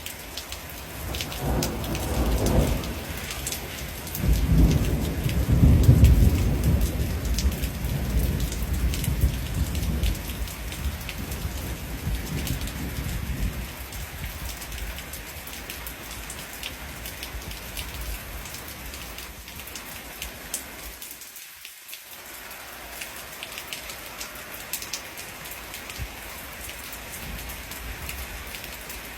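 Steady rain falling, with drops pattering on a surface. About a second and a half in, a roll of thunder swells into a deep rumble that peaks a few seconds later and dies away over the next several seconds.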